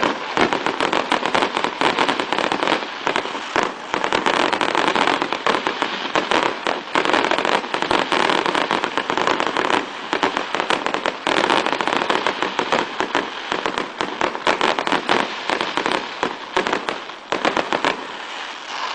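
Aerial fireworks going off in a dense, continuous barrage of crackling and popping bursts, many per second, which cuts off suddenly at the very end.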